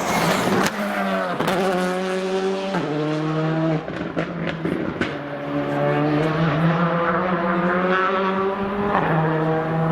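Rally car engine revving hard, its pitch climbing and then dropping several times as it shifts through the gears, with a few sharp cracks in between.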